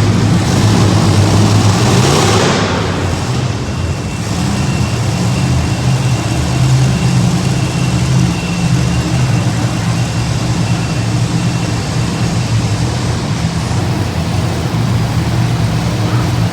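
Monster truck engines running at the start line in an arena: a loud, continuous low rumble that swells and dips as the throttle is worked. A broad rush of noise sweeps over it in the first two to three seconds.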